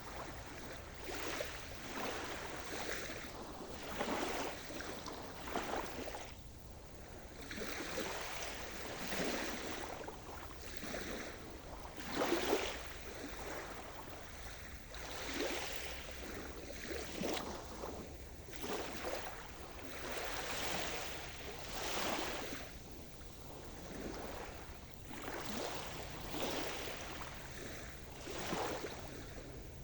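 Sea surf: small waves breaking and washing in, a swell every couple of seconds, with one louder break about twelve seconds in.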